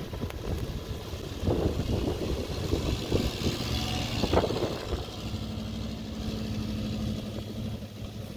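Gusty wind buffeting the microphone in a snowstorm while a vehicle passes: a rushing noise swells through the middle and fades, and a steady low engine hum follows in the second half.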